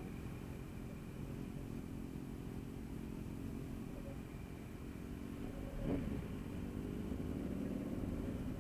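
Motorcycle engine running at low speed, with a rise in revs and a louder pull about six seconds in.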